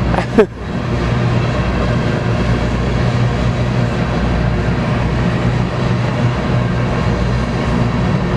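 BNSF grain train rolling past close by, a steady low rumble of wheels on rail, with a brief loud bump about half a second in.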